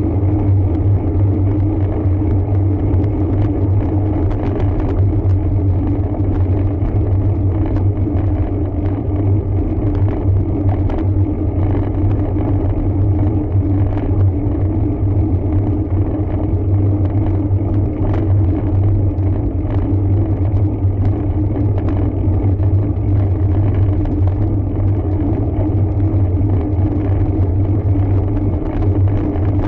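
Steady low rumble of a road bike being ridden, picked up by a bike-mounted camera as tyre and road vibration, with scattered small clicks and rattles.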